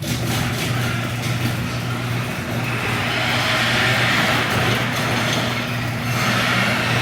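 Garage door opener running: a steady motor hum under the rattling and grinding of the door travelling along its track, louder in the middle and again near the end.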